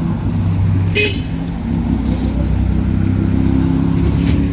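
Motor-vehicle engine running with a steady low rumble. A brief horn toot sounds about a second in.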